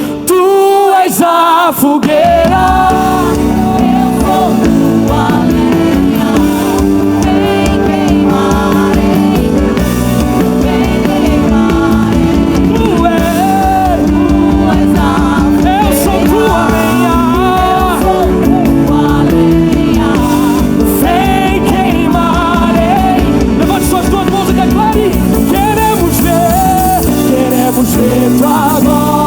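Live gospel worship band with drum kit playing under singing, over sustained chords. The low end drops out briefly about half a second in and comes back with the full band around two seconds in.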